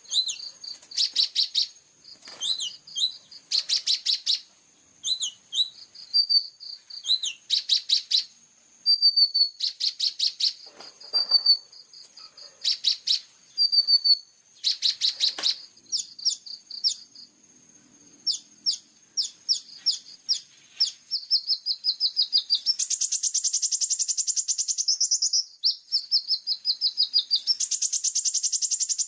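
Sunbird (kolibri ninja) singing: fast rattling trills, the 'tembakan' shots, broken by short high whistled notes. It ends in two long continuous trill runs near the end.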